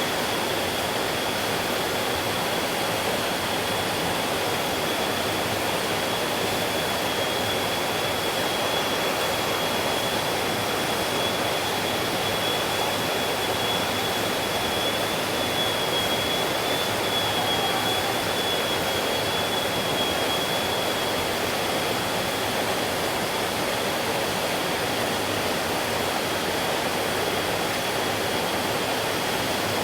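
Stream water flowing with a steady, continuous rushing. A thin, high, steady whine runs through it and is a little stronger in the middle.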